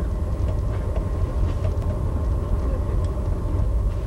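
Steady low rumble of the VIA Rail Canadian passenger train running along the track, heard from inside its dome car.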